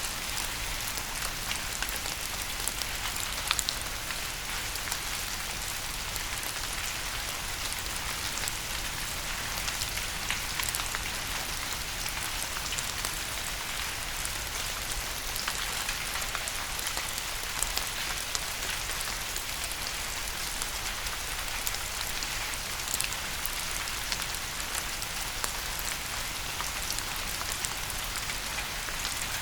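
Steady rain falling on a surface, a dense hiss with many individual drops ticking and pattering through it.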